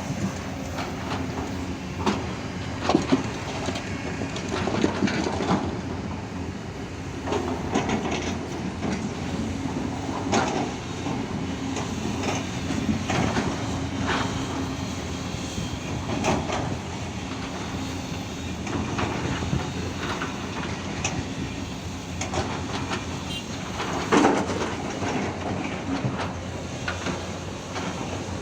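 Diesel hydraulic excavator working while loading a dump truck: the engine runs steadily under load while the bucket and tipped soil give irregular clanks and knocks every few seconds, the loudest a few seconds in and again near the end.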